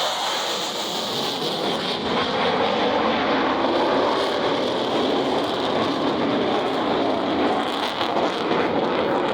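A USAF F-16 Fighting Falcon's jet engine running in flight: a steady, rushing noise that grows a little louder about two seconds in.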